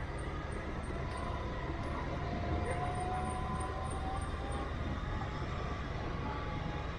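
A motor vehicle running on a road: a steady rumble with faint whining tones that drift slightly in pitch.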